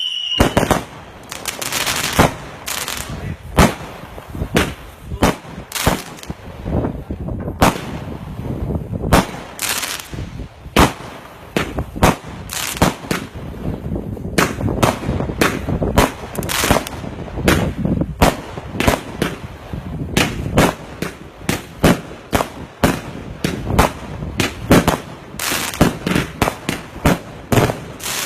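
Multi-shot fireworks cakes firing: a long, irregular run of sharp bangs, about one to two a second, with a crackling haze between the reports.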